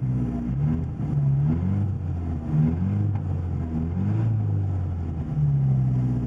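1980 Porsche 924 Turbo's turbocharged inline-four running through a 2.5-inch straight-pipe exhaust. The idle wavers and sags lower for a few seconds, then steadies again near the end.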